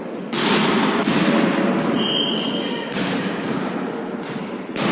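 A ball being struck and bouncing in a volley tennis rally: about four sharp thuds a second or two apart, each with a hall echo, over a steady murmur of voices. A brief high squeak sounds about two seconds in.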